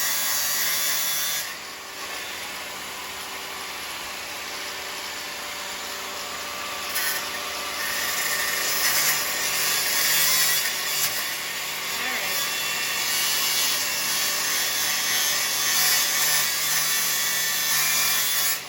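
Power saw cutting through metal near a car's control arm bolt, running steadily; it eases off about a second and a half in, cuts harder again from about seven seconds, and stops near the end.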